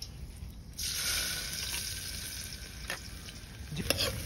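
Chopped vegetables tipped into hot oil in an aluminium pressure cooker, sizzling suddenly about a second in and then frying steadily. Near the end a spoon stirs them, scraping and clicking against the pot.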